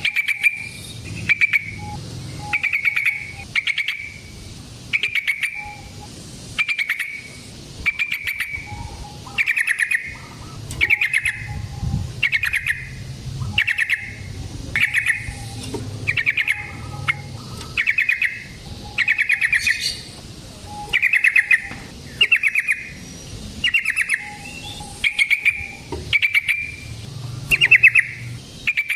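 Yellow-vented bulbul (trucukan) calling, short phrases of rapid bubbling notes repeated about once a second.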